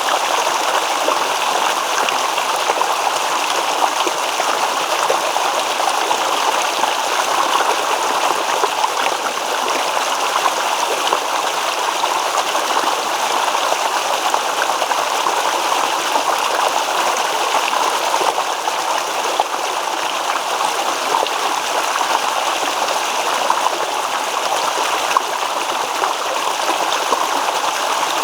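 A small stream babbling and trickling over stones, a steady rush of running water with no pauses.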